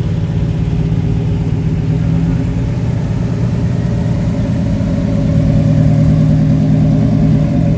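A car engine running steadily at low speed as a car rolls slowly past, getting louder from about five seconds in and falling away near the end.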